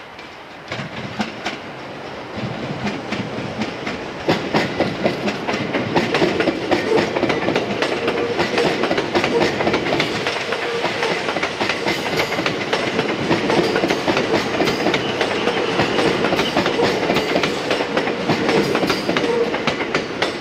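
A JR West 227 series electric train passes close by, its wheels clattering rapidly over the rail joints. The sound grows louder over the first few seconds, then stays loud as the cars go by, with a steady tone beneath the clatter.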